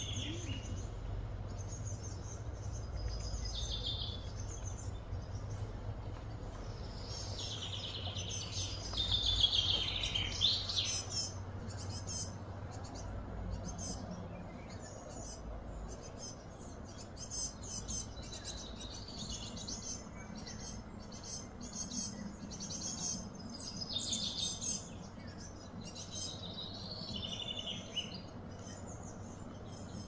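Birds chirping and calling in quick repeated phrases, busiest and loudest about nine to eleven seconds in, over a steady low hum.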